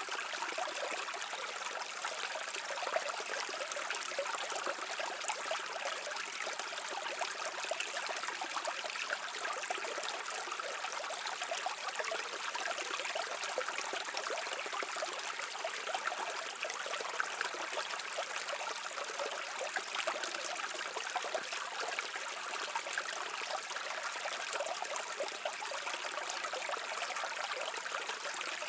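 A stream flowing steadily, with continuous trickling, babbling water and no pauses or changes.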